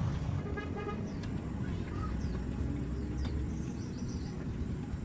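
Low steady rumble with a few short high bird chirps from about three seconds in.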